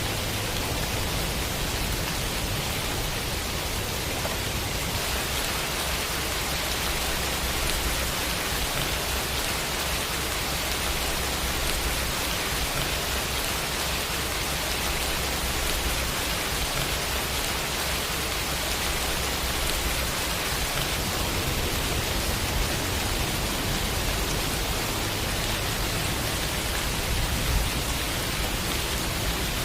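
Steady heavy rain, a dense even hiss of rainfall with no individual drops standing out.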